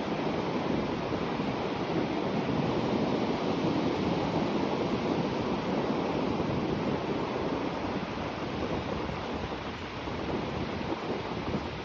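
Sea waves breaking gently on the shore: a continuous wash of surf that swells a little and eases, with no single crash standing out.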